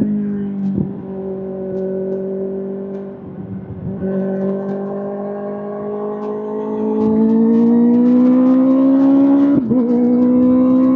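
Kawasaki ZX-6R inline-four engine running through an SC-Project SC-1R exhaust, its note climbing slowly under throttle. The note breaks off briefly about a second in, again at about four seconds and near the end, and is loudest in the second half.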